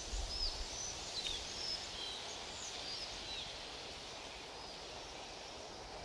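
Small birds chirping, many short high calls and quick pitch glides over a steady outdoor background hiss. The calls are dense at first and thin out after about three and a half seconds.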